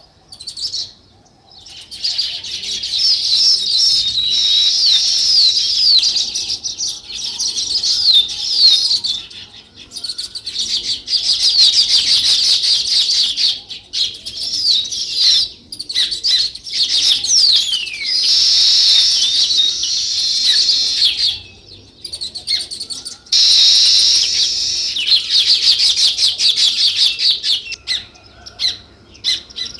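A group of small birds chirping loudly and almost continuously in rapid, overlapping high chirps and short falling notes. The chirping starts about two seconds in and breaks off briefly a few times, most clearly about three quarters of the way through.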